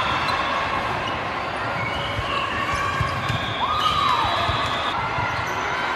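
Indoor court sounds in a large gym: balls bouncing with short repeated thumps on a hard floor, over a steady crowd chatter, with a few high squeaks.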